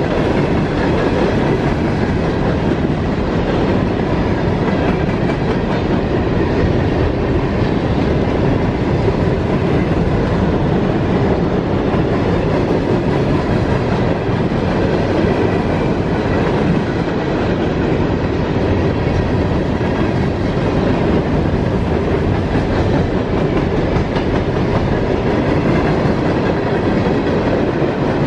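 Empty CSX steel coke hopper cars rolling past at close range, a steady rumble with the clickety-clack of wheels over the rail joints.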